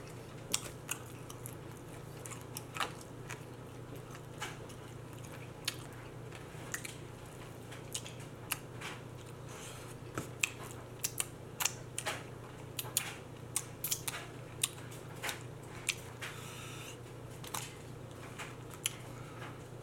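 Close-up eating sounds of chicken wings being chewed and bitten: scattered short wet smacks and clicks, irregular and a few per second at most, over a low steady hum.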